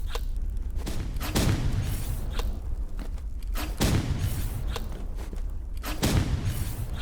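Fireworks bursting: three heavy booms about two and a half seconds apart, with lighter cracks between them, over a steady low rumble.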